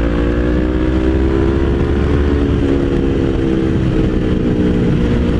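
Motorcycle engine running while riding, engine note rising gently then dropping a little a couple of times, as on light throttle changes or gear shifts, over steady wind and road noise.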